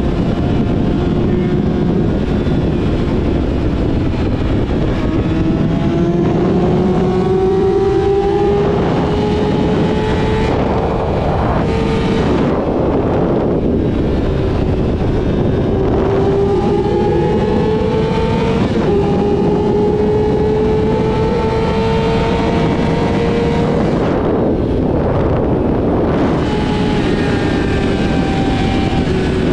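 Yamaha YZF-R6 inline-four with a full-system aftermarket exhaust, under way on the road. The engine note climbs steadily and drops back several times as the rider shifts gears, with wind rushing past.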